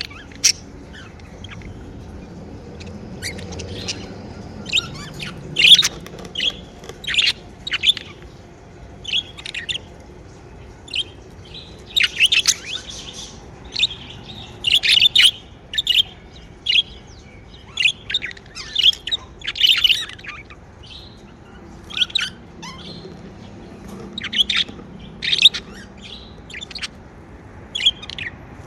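Pet budgerigars chirping: a flock of short, sharp, high chirps and chatter coming in irregular bursts, over a faint low hum.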